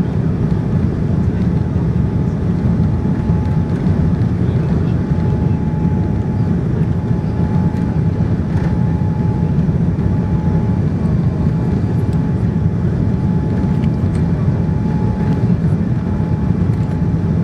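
Steady low rumble of a Boeing 787-9's engines and airflow heard inside the passenger cabin, with a faint high whine that fades in and out.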